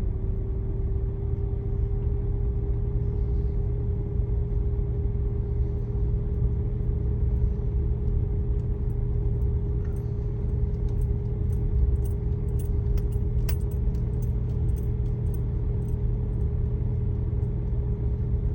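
Car engine running at low speed, heard from inside the cabin as the car drives slowly through flood water on the road: a steady low rumble with a constant hum, and scattered light ticks in the second half.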